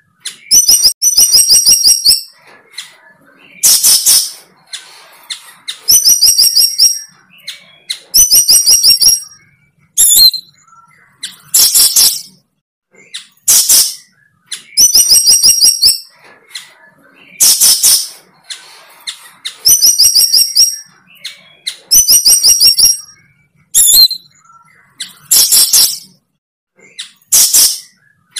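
A bird call repeated at an even pace, about every two seconds: a short harsh high note, then a rapid trill of quick high notes.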